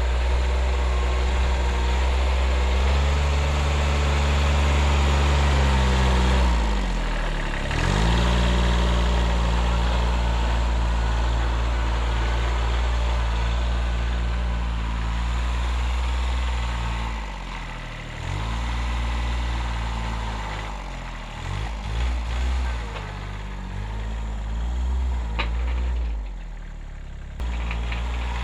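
1978 Kubota B6100 compact tractor's 14 hp diesel engine running steadily. Its pitch sags and recovers about seven seconds in, then several times more in the second half, as it takes load plowing deep snow.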